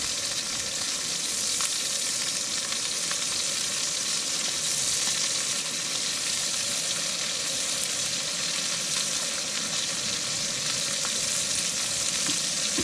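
Burger patties sizzling steadily as they fry in the pan of a Trangia camp stove.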